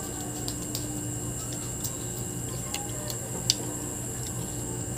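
Scattered crisp clicks and crunches of someone chewing raw green mango, the loudest about three and a half seconds in, over a steady faint background hum.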